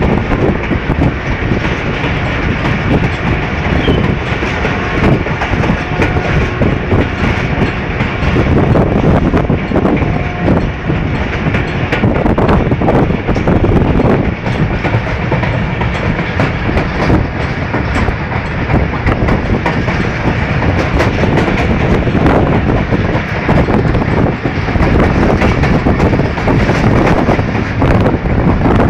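Passenger train running, heard from aboard its own coach: a steady rumble of wheels on the track with quick clicks throughout.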